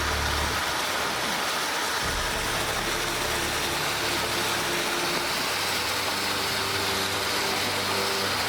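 A car driving, heard from inside the cabin: a steady rush of road and wind noise over a low engine hum, whose pitch shifts about two seconds in.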